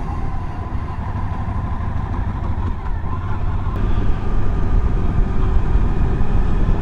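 Suzuki V-Strom DL1000's V-twin engine running steadily under way, with wind and road noise. It grows a little louder from about four seconds in.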